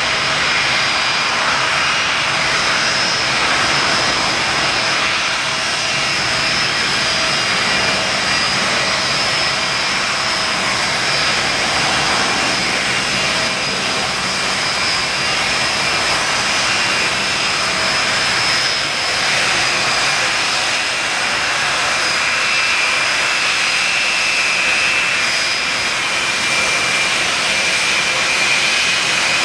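Boeing 747-200F's Rolls-Royce RB211 turbofans running steadily: a continuous jet roar with a high, steady whine.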